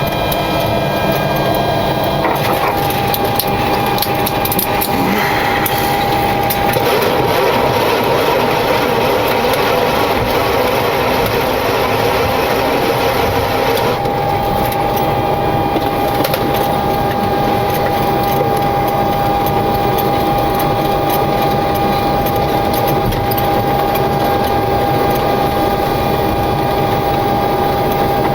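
Cockpit noise of a Boeing 727-200 taxiing after landing: the steady rush of its idling Pratt & Whitney JT8D turbofans, with a steady high whine that sets in about two seconds in.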